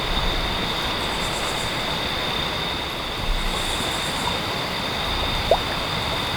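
Steady rushing water, with a constant high-pitched tone over it and a short rising squeak about five seconds in.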